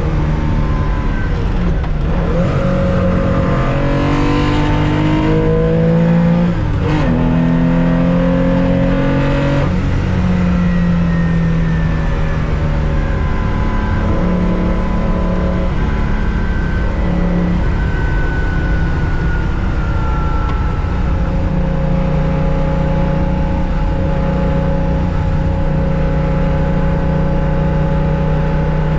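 1965 Porsche 911 2.0's air-cooled flat-six under full racing load, heard onboard: it revs up, drops in pitch at an upshift about seven seconds in, revs up again until about ten seconds, then runs at a fairly steady high pitch.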